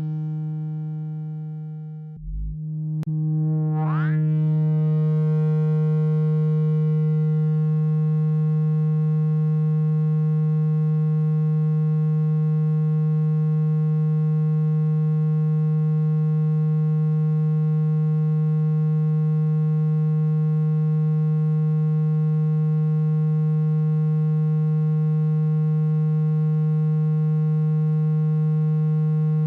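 Synthesized water-ejection tone for shaking water out of a phone speaker: a steady, low buzzing tone full of overtones. It cuts out briefly about two seconds in, a quick rising sweep follows, and the low buzz then holds steady.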